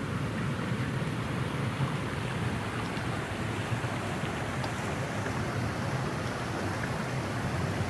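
Mountain stream rushing steadily over rocks, an even unbroken water noise.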